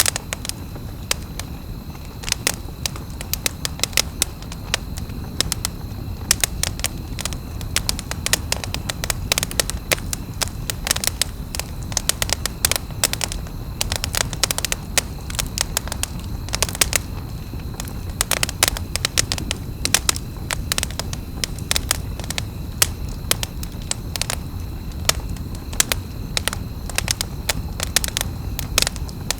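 Campfire burning, its wood crackling and popping in quick irregular snaps over a low steady rumble of flame.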